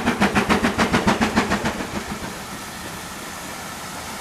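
Steam locomotive passing at speed, its exhaust chuffing in a fast, even beat of about five a second. The beat fades out about two seconds in, leaving a steady rumble and hiss of the carriages running by.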